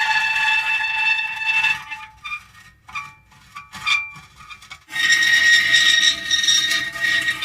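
Metal creaking: a long, high squeal that breaks off about two seconds in, a few short squeaks, then a louder sustained squeal from about five seconds in.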